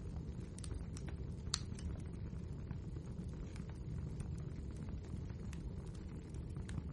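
Wood fire burning in a fireplace: a steady low rush from the flames with scattered sharp crackles and pops from the burning logs, one louder pop about a second and a half in.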